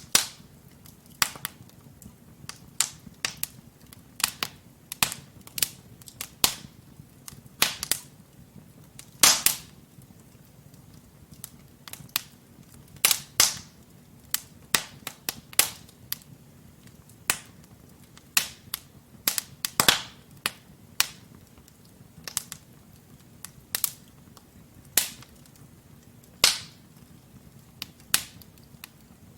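Wood fire crackling in a fireplace: irregular sharp pops and snaps from the burning logs, several of them loud, over a faint low steady rumble of the flames.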